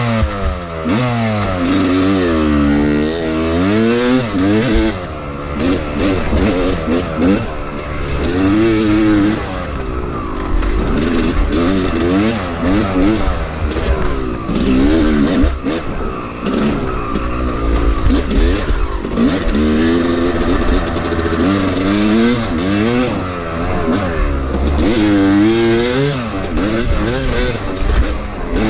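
Two-stroke dirt bike engine being ridden hard, revving up and falling back over and over as the throttle is worked, with knocks and rattles from the bike over rough ground.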